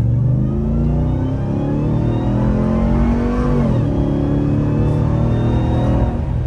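Ram TRX's supercharged 6.2-litre V8 at full throttle, towing a loaded trailer. The engine note climbs steadily, drops sharply about three and a half seconds in as the transmission upshifts, then climbs again and drops once more near the end at the next upshift. A thin high whine rises along with it.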